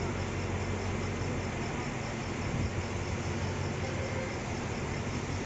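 Steady low hum of a diesel passenger train standing at a station platform, with a faint high chirping of insects repeating a few times a second.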